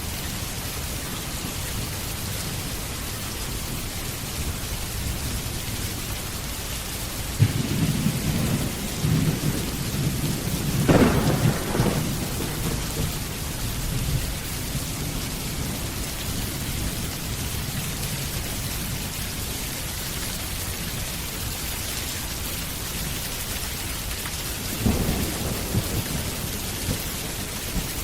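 Steady rain with thunder: a rolling rumble breaks out suddenly about a quarter of the way in, swells and fades over several seconds, and a shorter rumble comes near the end.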